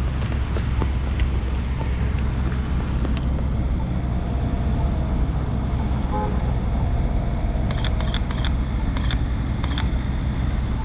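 Steady low rumble of a motor vehicle running, with a quick run of sharp clicks about eight to ten seconds in.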